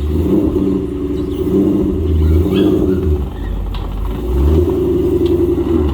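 Supercharged 5.8-litre V8 of a 2013 Shelby GT500 running, its revs rising and falling.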